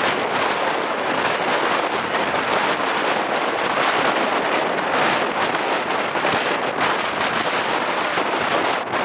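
Steady rush of wind over the microphone at the window of a moving Chepe (Chihuahua al Pacífico) passenger train, with the train's running noise underneath.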